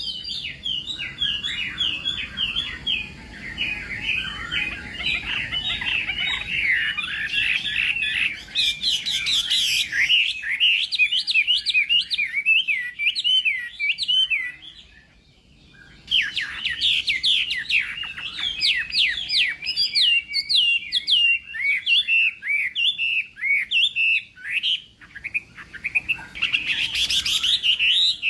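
Chinese hwamei singing its competition song: a long run of rapid, varied whistled phrases. It breaks off for about a second and a half just after the middle, then starts again.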